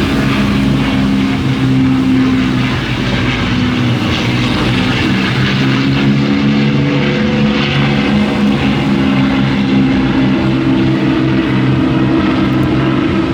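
Propeller-driven aircraft flying over at an airshow, its engine giving a steady drone whose pitch shifts a few times.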